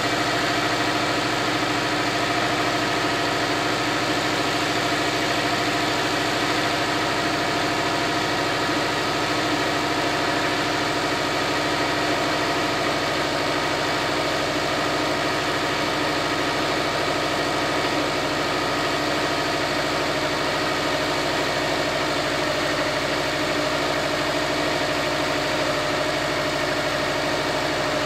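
2007 Subaru WRX STI's turbocharged 2.5-litre boxer four idling steadily shortly after a cold start at −10 °C.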